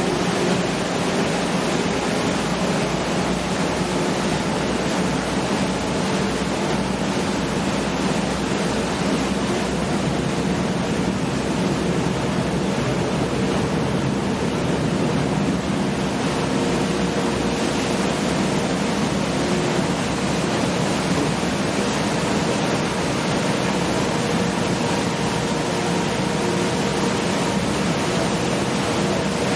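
Steady drone of the Jin Lie Star ferry's engines under a constant rush of water and wind as the boat runs.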